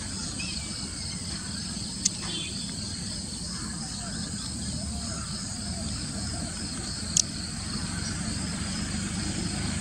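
Outdoor ambience dominated by steady insect chirring, over a low rumble. Two short sharp clicks sound, about two seconds in and again about seven seconds in.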